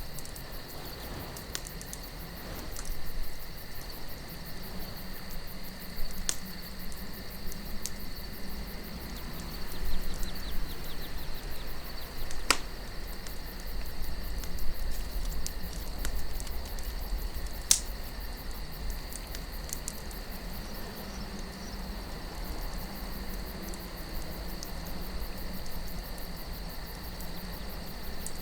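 Campfire burning with a few sharp wood pops, the strongest about halfway through, over steady chirping crickets and a low wind rumble.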